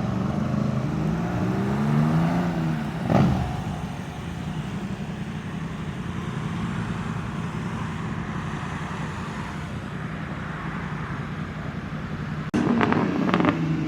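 Vehicle engines at a car show: an engine revs up and down for the first few seconds, then a steady engine drone, with a sudden louder burst with sharp clicks near the end.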